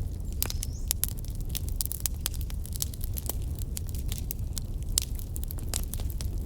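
Wood fire crackling, with irregular sharp pops and snaps over a steady low rumble of the flames, and a brief faint whistle about half a second in.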